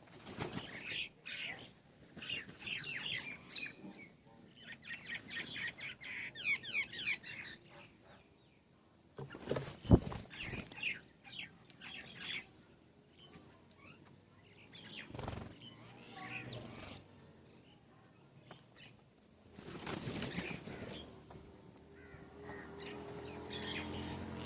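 Small birds chirping in quick runs of short notes for the first several seconds, with bursts of wing flutter later on. A single sharp knock about ten seconds in is the loudest sound.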